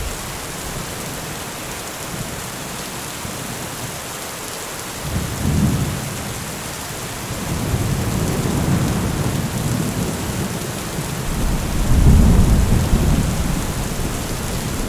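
Heavy rain falling steadily, with deep thunder rumbling in: a short roll about five seconds in, then longer rolls that build to the loudest about twelve seconds in.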